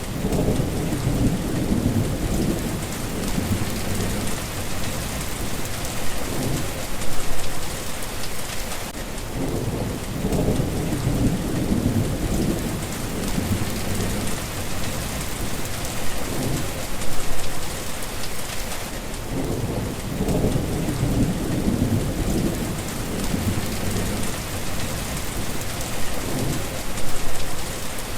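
Steady rain hissing on surfaces, with low rolls of thunder that swell up about every ten seconds.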